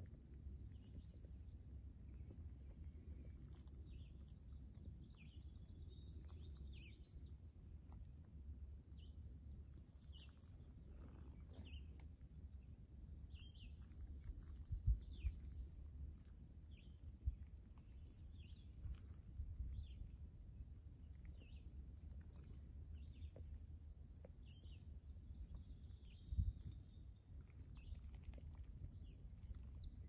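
Small birds chirping and trilling in short, repeated calls throughout, faint, over a steady low rumble. A few dull thumps stand out, about halfway through and again near the end.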